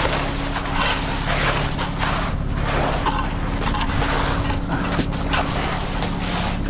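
Concrete mixer truck's diesel engine running steadily, under irregular scraping and swishing of wet concrete being spread.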